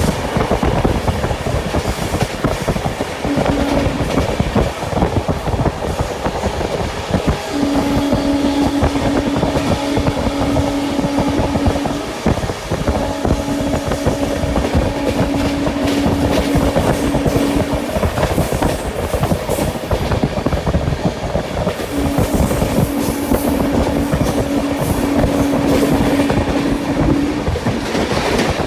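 Express passenger train running at speed, heard from inside a coach: continuous rumble and clatter of wheels on the rails, with a steady low hum that comes in for several seconds at a time and drops out again.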